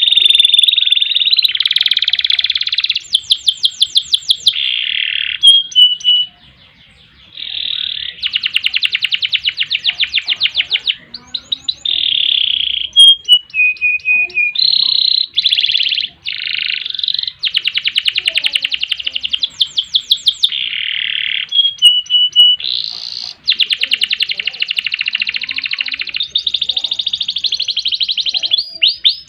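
Domestic canary singing a long, continuous song of fast rolling trills alternating with held high notes, with one short pause about six seconds in.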